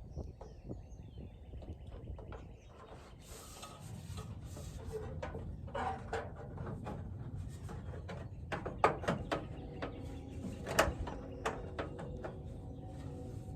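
Knocks and clanks from handling a metal downspout, growing busier after the first few seconds, some with a short metallic ring.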